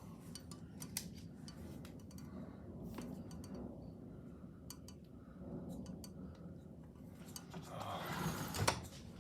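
Rain during a storm: scattered ticks of drops over a low rumble, with a louder rushing burst and one sharp knock about eight and a half seconds in.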